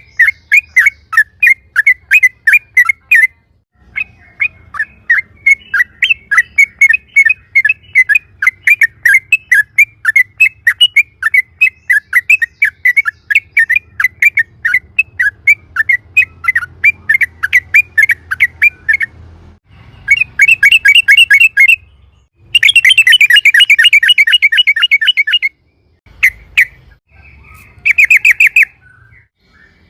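Yellow-vented bulbul (trucukan) singing loudly in its 'ropel' style: a long run of quick repeated notes, several a second, broken by short pauses. In the second half these give way to a few shorter, faster trills.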